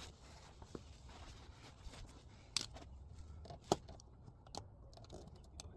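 Scattered sharp plastic clicks and knocks of hands working a stiff wiring-harness connector loose on a Tesla drive unit, the loudest snap a little past halfway.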